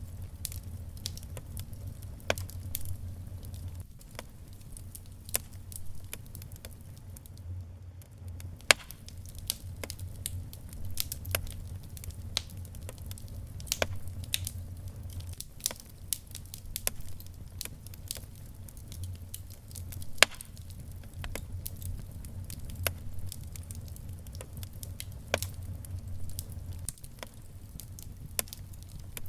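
Wood fire crackling, with irregular sharp pops and snaps over a steady low rumble. The loudest pops come at about 9 and 20 seconds in.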